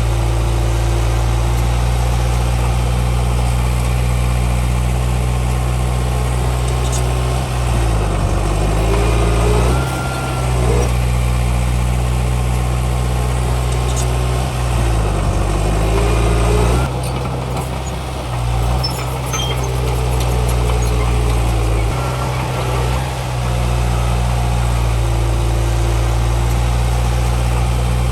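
Heavy diesel earthmoving machinery running steadily, with the engine pitch rising and falling twice as it works under changing load.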